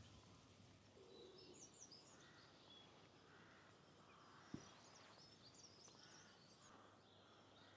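Faint birdsong: small birds chirping and twittering in short high phrases over a quiet outdoor hush, with one brief knock about halfway through.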